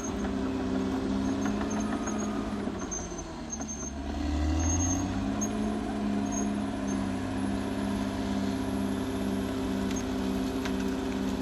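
Caterpillar D6R XL bulldozer's diesel engine running steadily under load. Its pitch sags about three seconds in and picks back up about five seconds in.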